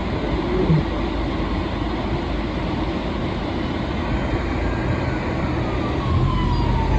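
Steady engine and road noise inside an SUV driving on a snowy road. From about halfway through, an ambulance siren wails faintly, its pitch falling slowly, while a low rumble grows louder near the end.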